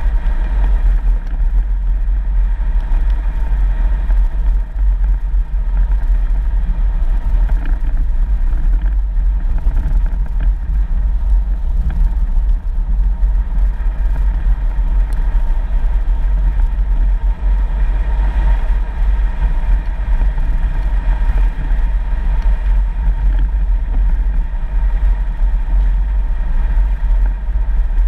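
A 4x4 vehicle driving on a dirt road: steady low rumble of engine and tyres.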